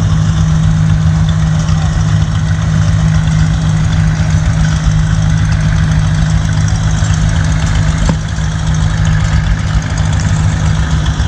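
Vehicle engine idling steadily with an even low pulsing beat. A single faint click comes about eight seconds in.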